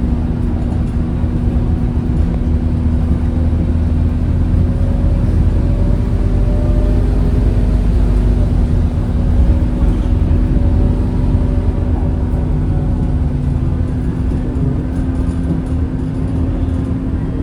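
Scania K230UB city bus's diesel engine running steadily under way, a low drone with a steady whine over road rumble.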